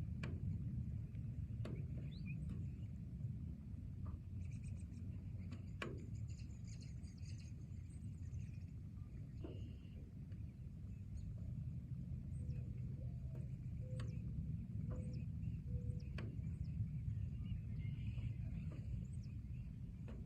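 Forest ambience: a steady low rumble with scattered sharp ticks and occasional short bird chirps.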